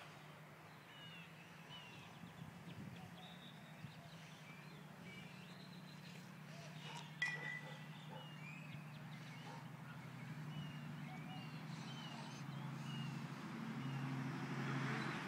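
Small birds chirping in short, repeated calls over a low steady hum that grows louder toward the end, with one sharp click about seven seconds in.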